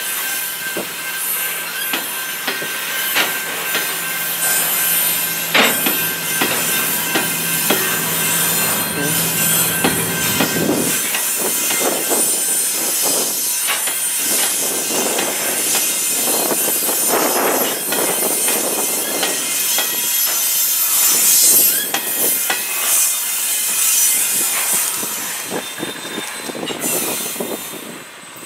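Freight train of covered hopper cars rolling past, the wheels clicking over a noisy rail joint at the crossing, with some high wheel squeal. It fades near the end as the cars move away.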